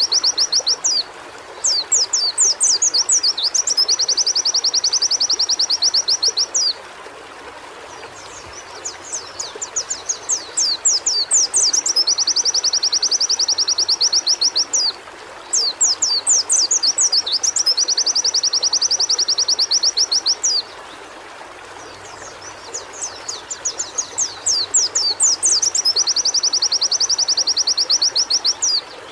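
White-eye (pleci) singing in repeated bouts. Each bout is a run of quick sweeping notes that leads into a long, fast, even trill, with short pauses between bouts, over a steady background hiss.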